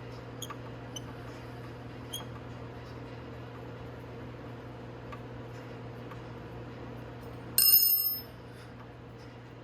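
Light metallic clinks of hand tools and brake-caliper hardware, then a loud, bright metal clang that rings for about half a second, near the end, over a steady low hum.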